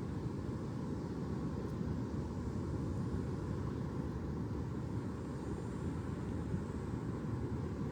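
Steady, even low rumbling noise with no distinct events.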